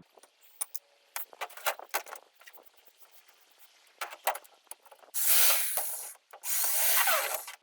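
Scattered clicks and knocks of tool work, then two loud scraping strokes of about a second each near the end.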